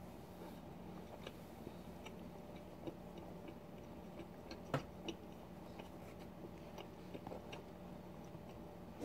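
Close-miked, quiet chewing of soft macaroni-and-rice goulash, with small wet mouth clicks scattered throughout and one sharper click about halfway through.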